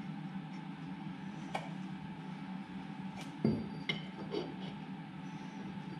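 A few light metallic clinks and a louder knock about three and a half seconds in, as short pieces of steel pipe are handled and test-fitted, over a steady low hum.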